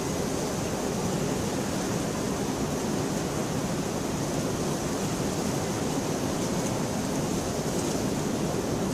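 Steady, even rainfall, a continuous hiss and patter with no thunder.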